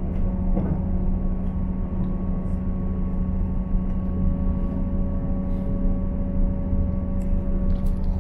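Cabin noise inside a Class 158 diesel multiple unit running at speed: a steady low drone and rumble with a constant hum.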